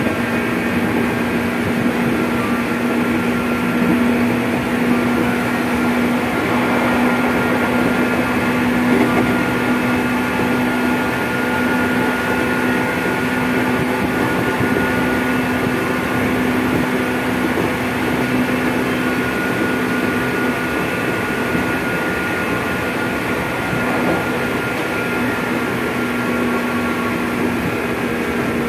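Running noise inside a JR 205-series electric commuter train's motor car: the traction motors and gears hum with steady tones over the rumble of wheels on rail, the train running at a steady speed.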